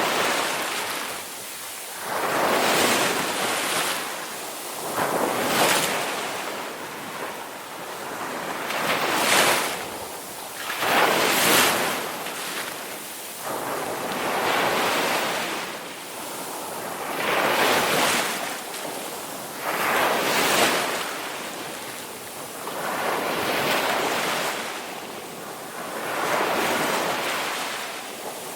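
Ocean waves breaking and washing on the shore, rising and falling in a steady rhythm of surges every two to three seconds.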